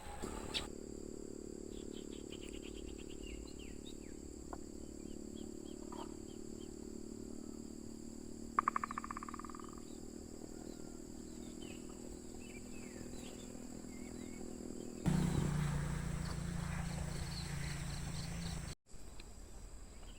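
Crickets keep up a steady high drone while birds give scattered short calls, including one loud, rapid trill about eight seconds in. A low steady hum sits underneath and grows louder about fifteen seconds in, then cuts out briefly near the end.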